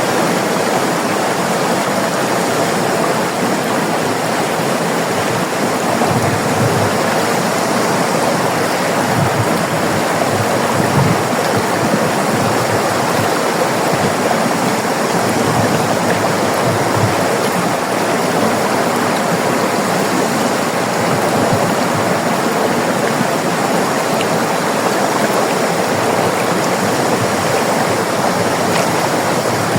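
River water rushing and splashing in a steady, loud flow, with a few brief low surges of water now and then.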